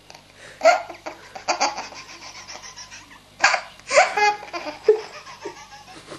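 A baby laughing in repeated short fits, with quieter gaps between them; the loudest bursts come about three and a half and four seconds in.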